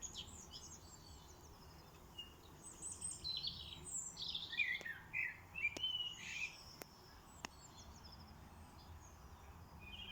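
Small songbirds singing spring song: quick bursts of twittering chirps, busiest in the middle and sparse near the start and end, over a low steady background rumble.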